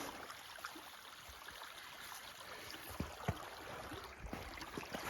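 Floodwater runoff from rain and snowmelt flowing steadily down a small channel, with a few soft low knocks about three seconds in.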